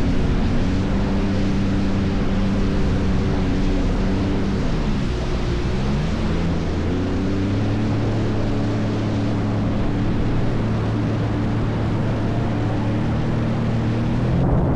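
Jet ski engine running at speed, with a rush of wind and water spray. The revs drop about five seconds in and climb back up a second later, then hold steady.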